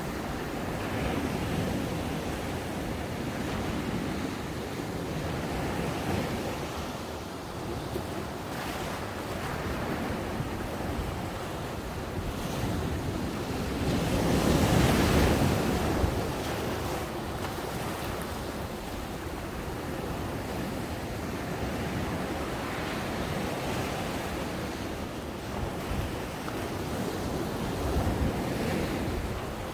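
Ocean waves breaking and washing up the beach, a continuous surf with slow swells. One wave breaks louder about halfway through. Some wind on the microphone.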